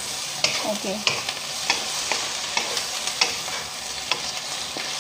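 Ground beef frying with a steady sizzle in a wok, stirred with a wooden spatula that scrapes and knocks against the pan in irregular clicks about every half second.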